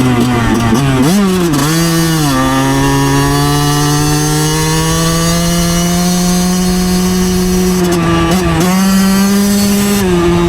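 2009 Yamaha YZ125's two-stroke single-cylinder engine running under way. The note wavers and dips about a second in, then settles into a long steady pull with the pitch slowly climbing. It dips briefly again near the end.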